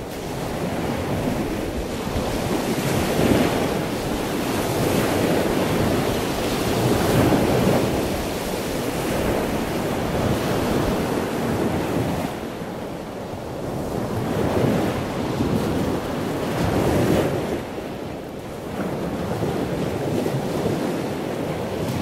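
Ocean water sound: a continuous rushing noise like surf that swells and eases every few seconds.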